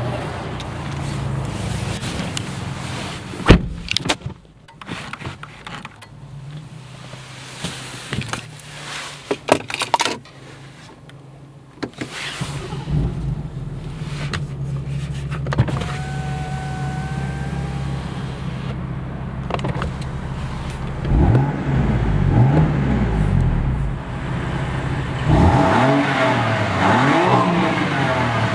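BMW M4's twin-turbo straight-six engine idling, with several sharp clicks and knocks and a quieter stretch early on, and a brief electronic beep midway. Near the end the engine is revved in quick blips, its pitch rising and falling, in two bursts.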